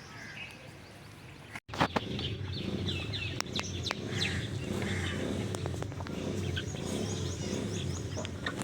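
Small birds chirping in quick repeated notes over outdoor background noise. About a second and a half in, the sound cuts out for an instant and comes back louder, with a few sharp clicks and a low rumbling haze under the chirps.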